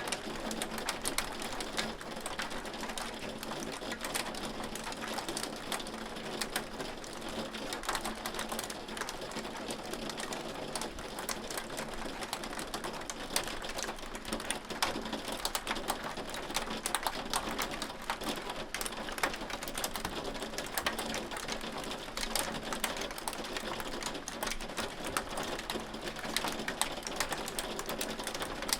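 Hailstones striking a hard surface: a dense, irregular clatter of sharp clicks over a steady hiss.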